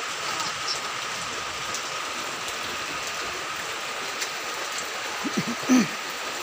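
Steady heavy rain falling on plastic tarps, sheeting and a flooded street, with a few sharper drop hits. A brief louder sound near the end.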